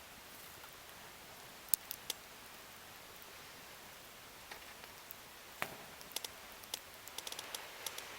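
Scattered sharp clicks and snaps of wood over a low hiss, a few at first and coming thicker near the end.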